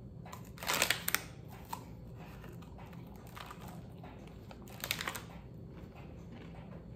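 Biting into and chewing a crisp mini lentil samosa: two short crunching sounds, about a second in and again near five seconds in.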